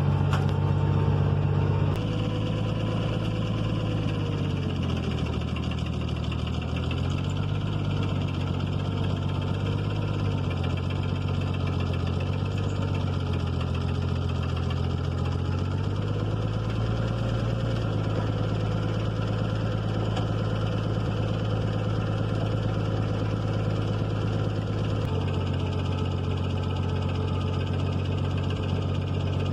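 Tractor engine running steadily, its revs dipping and recovering a few times, then easing down slightly near the end.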